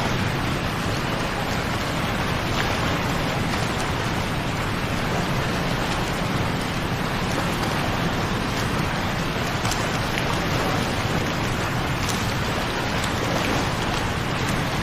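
Waterfall: a steady rush of falling water, with a few faint sharper ticks scattered through it.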